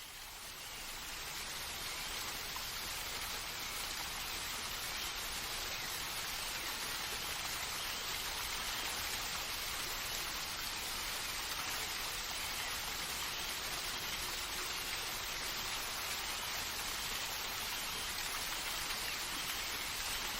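Steady rush of water from a small waterfall cascading over rocks, swelling up over the first couple of seconds and then holding even.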